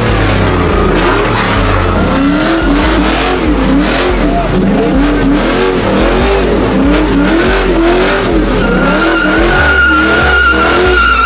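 A car doing a burnout: its engine revs up and down over and over, about twice a second, with the tyres squealing. Near the end a steady, high tyre screech is held for a few seconds.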